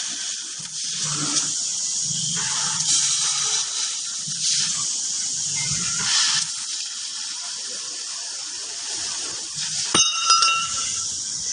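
Fiber laser cutting machine cutting U-channel steel: a loud, steady hiss of assist gas and cutting, over a low machine hum. About ten seconds in there is a sharp click, followed by a second of steady high tones.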